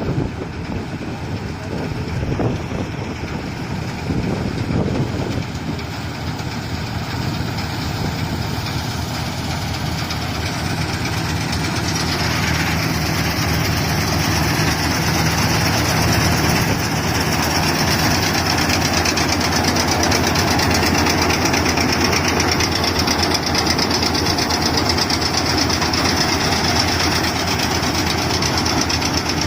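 Combine harvester running steadily, growing louder over the first half; about twelve seconds in, a high, steady hiss joins the engine noise.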